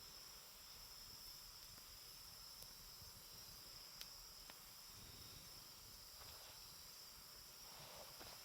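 Quiet wood campfire giving a few sharp, isolated crackles, over a steady high trill of insects. A brief rustle comes near the end.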